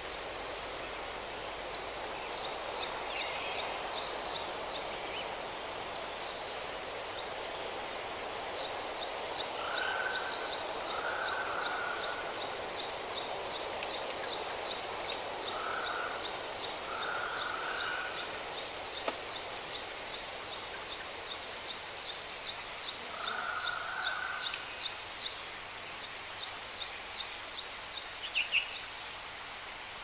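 Wild birds singing over a steady background hiss. High chirps come early, then a long run of high, evenly repeated notes at about four a second, with a few lower two-part calls dropping in now and then.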